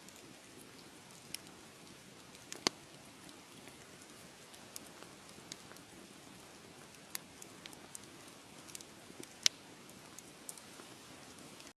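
Wood fire crackling: a steady soft hiss with scattered sharp pops and snaps, two of them much louder, a few seconds in and near the end.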